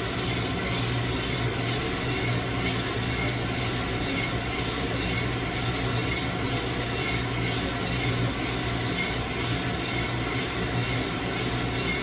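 Coffee roaster running with a load of green coffee beans tumbling inside: a steady rushing, rubbing hiss over a constant low motor hum.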